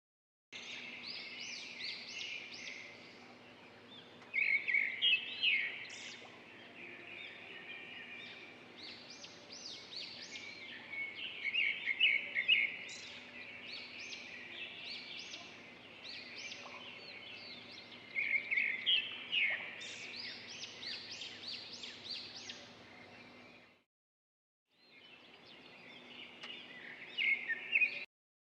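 Birds singing: repeated bursts of quick, high chirps and trills over a faint steady background, broken once near the end by about a second of silence before the song resumes.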